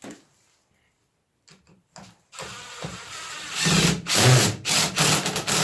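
Power drill driving a screw into wood. The motor runs quietly at first, then from about halfway through in loud stop-start bursts.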